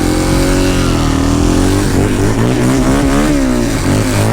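Quad (ATV) engines running and revving while riding, their pitch rising and falling, with two engines' pitches crossing about three seconds in.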